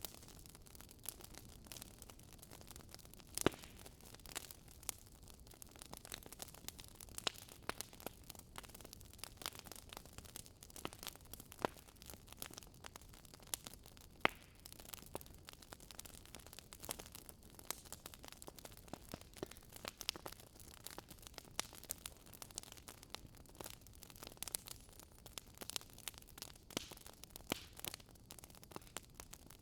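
Campfire burning, wood crackling and popping at irregular intervals over a low steady hiss, with a sharper pop a few seconds in and another near the middle.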